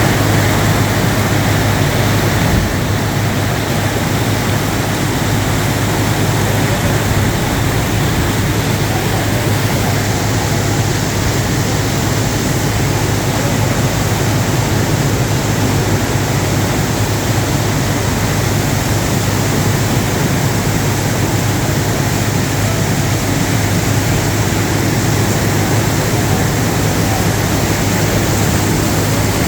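Heavy rain pouring down, a loud, even hiss that holds steady throughout, with a deep rumble underneath.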